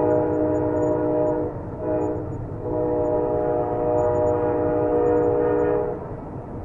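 Train horn sounding a chord: a blast that ends about a second and a half in, a short blast, then a long blast that stops about 6 seconds in, over the steady low rumble of the passing train.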